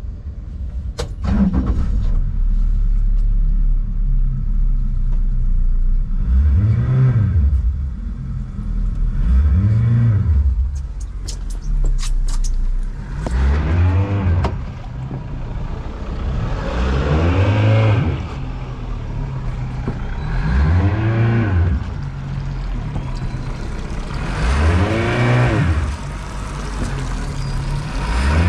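Yamaha 115 hp outboard motor running and being revved up and back down again and again, one rise and fall about every three to four seconds. A few sharp clicks come about a second in and again near the middle.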